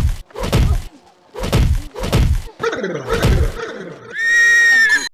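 A series of dubbed punch-and-whack sound effects, about six sharp hits, several with a falling boom, as a man is beaten with sticks and a rifle. Near the end comes a shrill, held sound about a second long.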